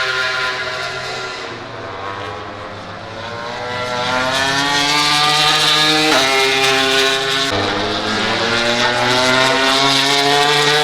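MotoGP racing motorcycles at full throttle: the engine sound fades about two seconds in, then a bike comes in with its pitch rising as it accelerates, with upshifts about six and seven and a half seconds in.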